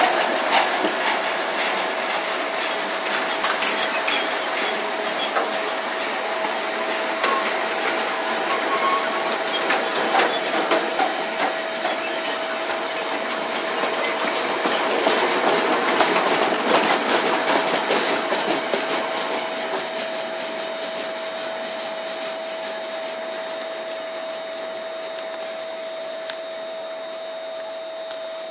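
Freight train of flat and open box wagons rolling past: wheels clattering irregularly over rail joints with a steady high whine, fading after about 18 seconds as the train draws away.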